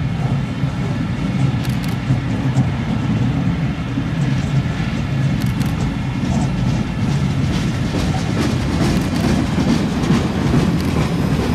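Freight train of new export locomotives rolling past on the rails: a steady wheel rumble with scattered clicks of the wheels over the track, turning harsher in the last few seconds as a freight gondola rolls by.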